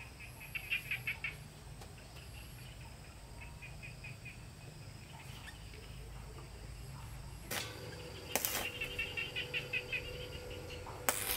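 A bird chirping in quick repeated trills, about a second in and again near the end, over low outdoor ambience. A few short noise bursts come in the second half, with a faint steady tone after them.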